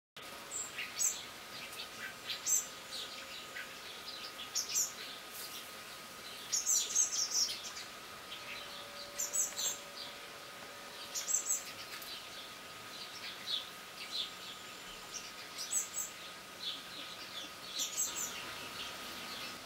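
Birds chirping in short, high phrases every second or two, over a faint steady high tone.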